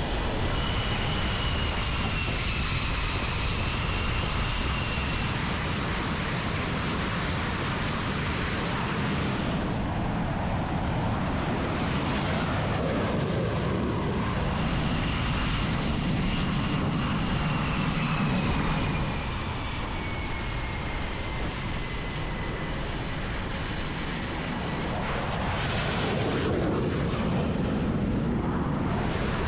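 Aircraft turbine engines running on a carrier flight deck: a loud, steady roar with high whining tones that slowly slide down in pitch, and surges of louder rushing noise in between.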